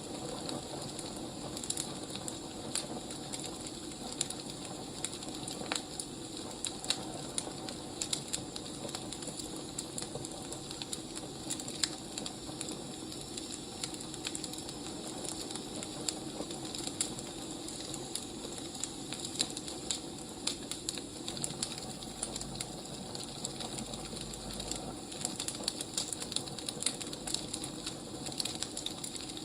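Wood fire crackling: a steady hiss with frequent irregular small pops and snaps.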